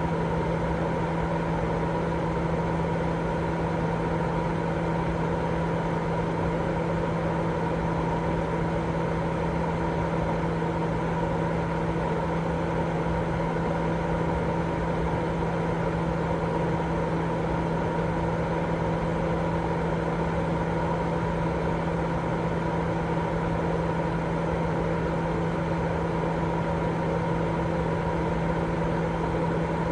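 Continuous sleep-aid white noise: an even, unchanging rushing noise, darker than pure hiss, with a low steady hum running under it.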